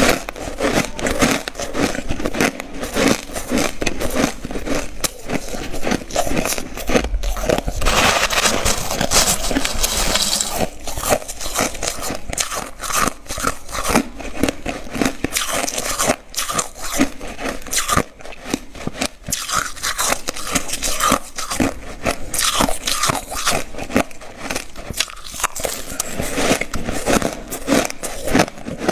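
Ice being bitten and chewed close to the microphone: dense, irregular crunching and crackling throughout, thickest about a third of the way in.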